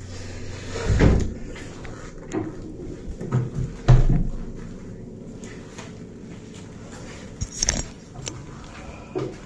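A handful of dull knocks and thumps with quiet handling noise between them, the loudest about four seconds in.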